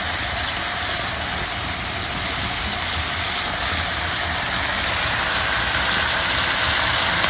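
Chicken pieces frying in hot oil in a pan: a steady sizzle with a low rumble beneath, growing slightly louder near the end.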